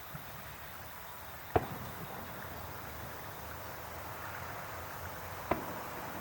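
Two firework shell bursts about four seconds apart, each a sharp bang; the first, about a second and a half in, is the louder.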